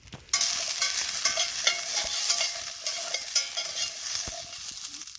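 Wood fire crackling and hissing, with many small rapid pops. It starts suddenly just after the opening and cuts off abruptly near the end.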